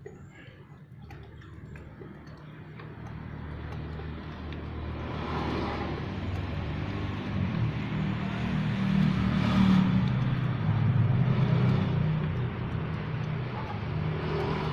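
A motor vehicle's engine approaching, growing steadily louder to its loudest about ten seconds in, then easing a little as it passes.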